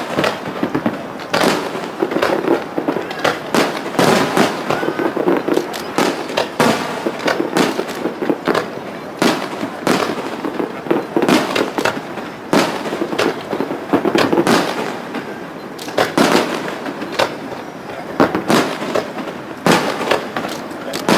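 Aerial fireworks bursting in quick succession: a dense, unbroken run of sharp bangs and crackles.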